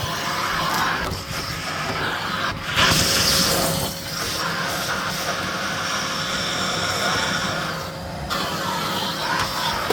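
Miele Blizzard CX1 bagless cylinder vacuum cleaner running steadily with a constant motor whine, its floor head moved over the floor so that the rush of air swells and eases.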